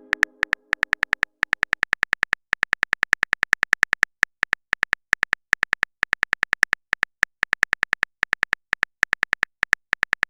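Typing sound effect: rapid clicks, each with a short high beep, about eight a second with brief pauses, marking text being typed out in a chat.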